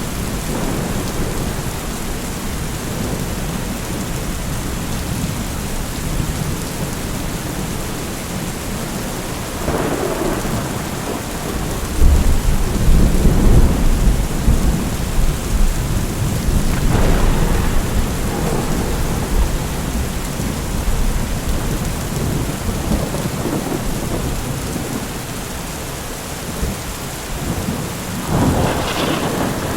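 Steady rain with rolling thunder: a heavy deep rumble swells about twelve seconds in and dies away over several seconds, with lighter rumbles before it and again near the end.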